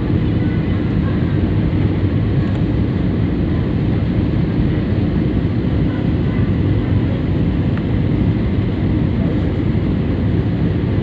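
Steady, loud engine and airflow noise heard inside a passenger airliner's cabin as it approaches to land.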